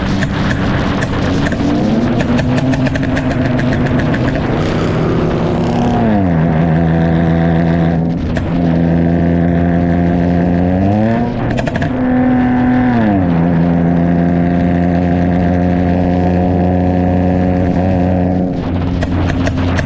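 Dodge Charger SXT's 3.6-litre V6 engine and exhaust running on a pop-and-crackle tune. Dense rapid crackling comes in the first few seconds. Then the engine note drops, holds steady, climbs and drops again, as a car being driven through the gears.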